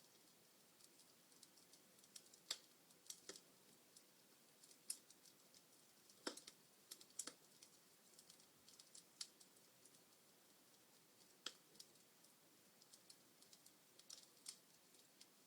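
Log fire crackling: irregular sharp pops and snaps, a handful of louder ones among many faint ticks, over a faint hiss.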